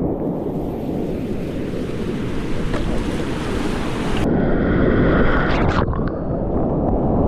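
Rushing whitewater of a big-water river rapid, with wind noise on the microphone. The sound changes abruptly about four seconds in.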